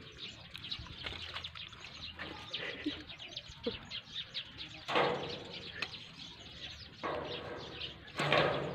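Small birds chirping steadily, with three short, louder noisy sounds about five, seven and eight seconds in.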